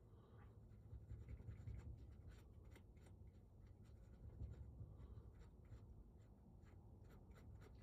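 Faint scattered clicks and scraping from handling a deadbolt lock and its small parts, over a low background rumble.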